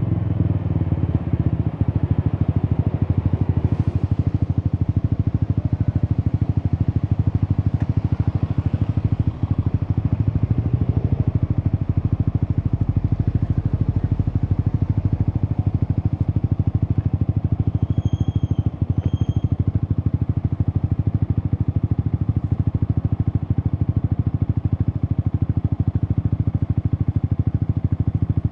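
Yamaha XSR 155's single-cylinder engine idling steadily through an Akrapovic aftermarket exhaust, with a rapid, even exhaust pulse, settling from a higher engine note just as it begins.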